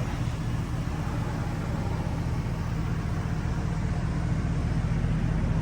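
A 2007 GMC Sierra's 4.8 L Vortec V8 idling through a Flowmaster dual exhaust: a steady low, even rumble that grows slightly louder toward the end.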